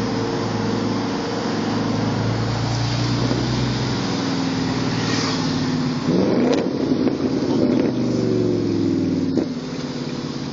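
Audi S5's V8 running through a loud aftermarket exhaust, then revved hard about six seconds in, its note rising sharply and falling again in a couple of pulls. The sound drops away suddenly near the end.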